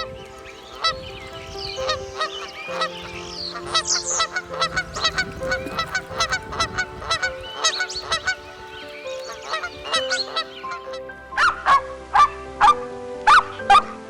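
Geese honking: many scattered calls at first, then a run of loud, evenly spaced honks about two a second in the last few seconds. Soft background music with long held notes plays underneath.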